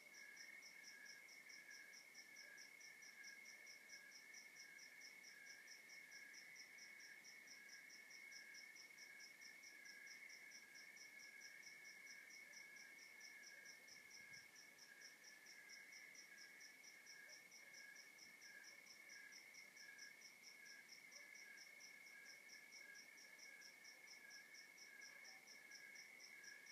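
Faint night chorus of crickets: an evenly pulsed high chirping over a steady lower trill, going on unchanged.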